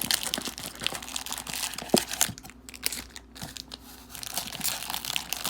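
Plastic packaging crinkling and rustling as trading cards are pulled out of a card box, with many small clicks of handling and one sharp tap about two seconds in.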